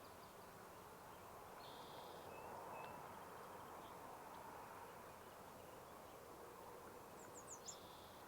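Faint songbird calls over a quiet outdoor hush: a short buzzy call about two seconds in, then a few thin high chirps and a second buzzy call near the end.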